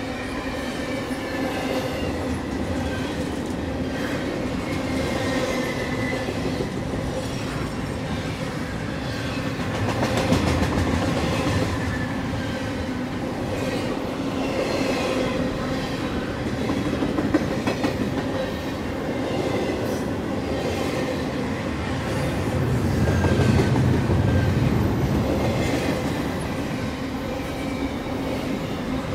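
CSX double-stack intermodal freight train's well cars rolling past at close range: a steady rolling noise of steel wheels on rail with occasional clicks and knocks. It swells louder about ten seconds in and again around twenty-three seconds in.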